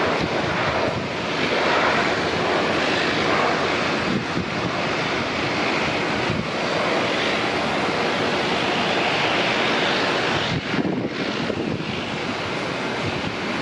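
Jet airliner engines running with a steady rush of noise as an aircraft moves on or near the runway, with wind on the microphone.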